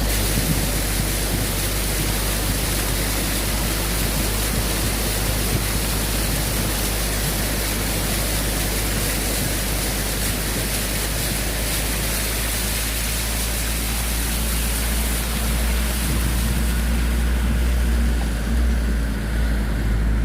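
Floodwater rushing steadily, a loud even hiss with a low rumble beneath it; the hiss thins out over the last few seconds.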